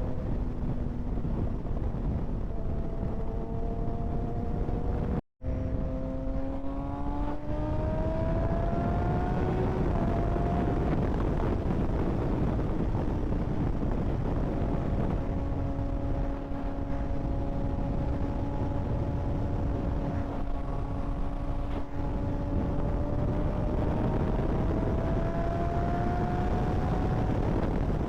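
Kawasaki ZX-6R 636's inline-four engine running on the move, its note climbing slowly as it pulls through the revs twice, under a heavy rush of wind and road noise. The audio cuts out completely for a split second about five seconds in.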